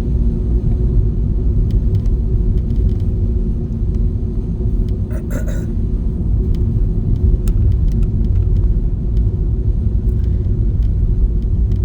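Steady low rumble of a car driving, heard inside the cabin: engine and tyre noise on a snowy, plowed road.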